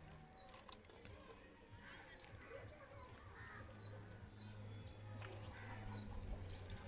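Faint, repeated short chirps of a bird in the background over a low steady hum, with no other activity.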